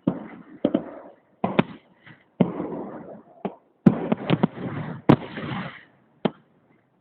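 Fireworks salute: about a dozen sharp bangs at irregular intervals, some in quick pairs, each followed by a lingering rumble.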